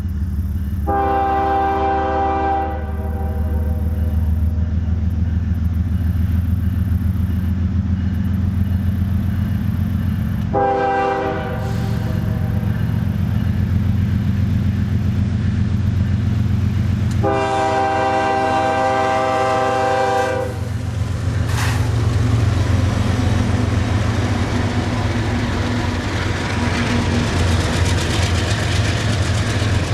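Norfolk Southern diesel locomotive leading a RoadRailer train sounds its air horn three times over the steady low rumble of its engine. The first blast comes about a second in, the second is short, near the middle, and the third is the longest. After that a rush of rolling train noise builds as it passes.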